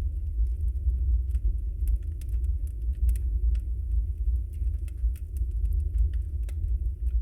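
Wood fire burning: a steady low rumble with frequent small, sharp crackles and pops from the burning logs.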